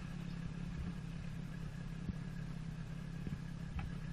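An engine running steadily at a constant low drone, with a few faint ticks.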